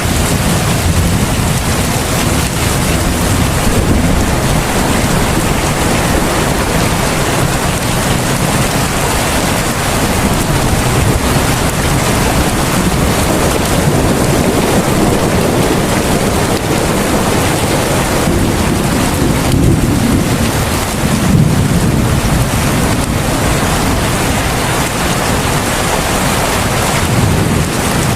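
Heavy rain pouring steadily, a dense even hiss, with a deeper low rumble swelling about two-thirds of the way in.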